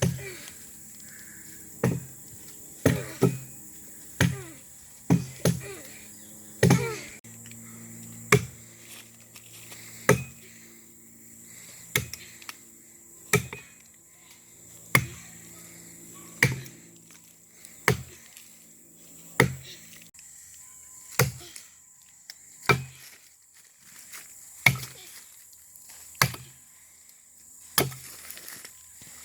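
Hand chopping into a cottonwood log being hollowed for a dugout canoe: about twenty sharp blows, one every second and a half or so, coming faster in the first few seconds. A steady low hum runs under the blows and stops about two-thirds of the way through.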